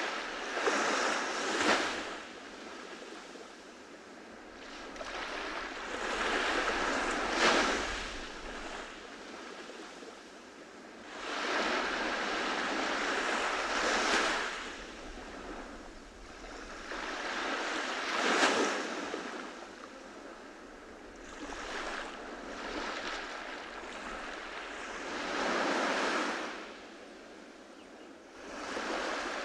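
Ocean waves breaking and washing up a beach, a rush of surf swelling and fading about every five seconds with quieter lulls between.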